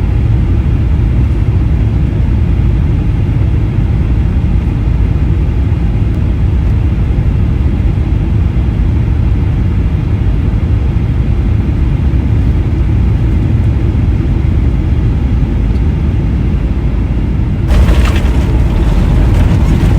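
Steady low rumble of an airliner's jet engines heard from inside the cabin. Near the end it grows louder and fuller.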